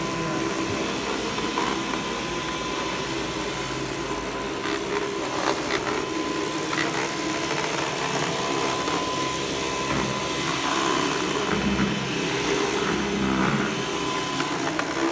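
Electric vacuum cleaner running steadily: a constant whooshing motor noise with a thin high whine over it.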